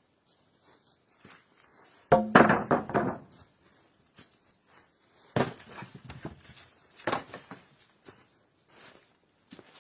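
Three loud knocks, each followed by a short clatter, about two, five and seven seconds in. The first is the loudest and rattles for about a second.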